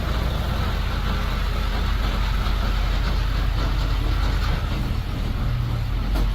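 Truck engine idling steadily with a low rumble, starting abruptly.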